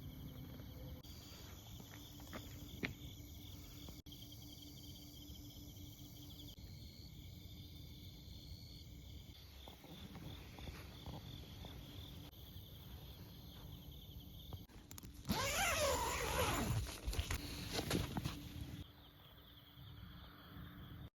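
Crickets trilling steadily in the night over the low rumble and occasional snaps of a small wood fire burning in a camp wood stove. A louder, wavering rush from the fire runs for a few seconds near the end.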